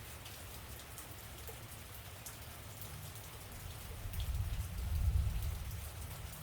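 Steady rain falling, with scattered drop ticks. A low rumble swells about four seconds in and eases off near the end.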